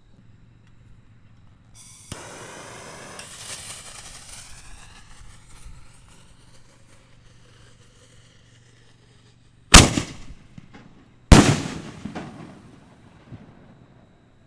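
A firework fuse hissing for a few seconds, then two loud bangs from 4-inch canister shells about a second and a half apart, each trailing off in an echo.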